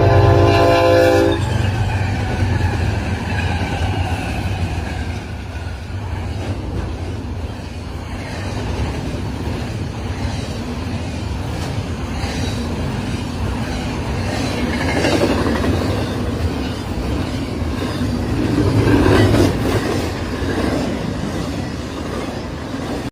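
A train horn sounds a chord and cuts off about a second in, followed by the steady rumble of a passing train, its wheels clattering over the rails.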